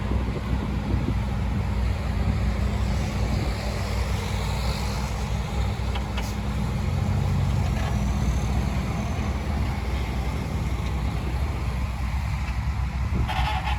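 Diesel engine of heavy earthmoving equipment running steadily, a deep drone that swells a little about seven seconds in.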